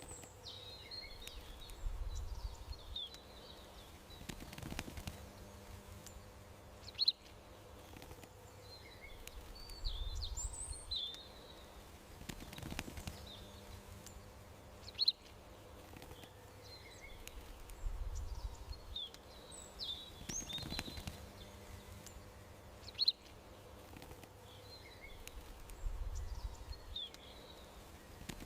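Small birds chirping and twittering in short high calls over a faint steady hum, with a sharp click about every eight seconds. The same short stretch of birdsong repeats on a loop every eight seconds or so.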